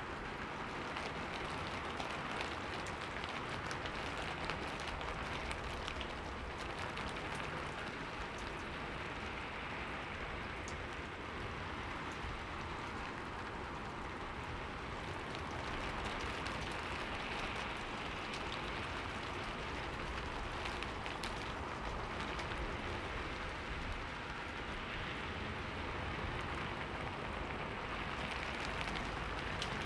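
Steady rain falling and pattering on a window pane, with scattered small drop ticks.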